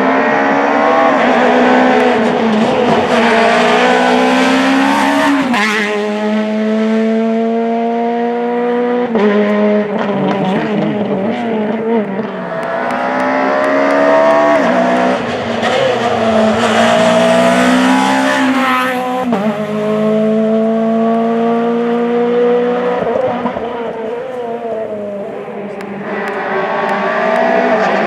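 Rally car engine accelerating hard through the gears: the pitch climbs steadily, then drops sharply at each upshift, several times over.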